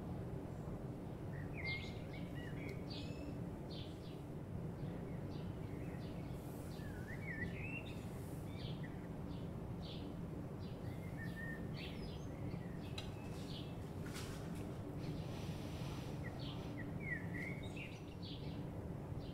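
Small birds chirping in short, quick calls scattered throughout, over a steady low hum.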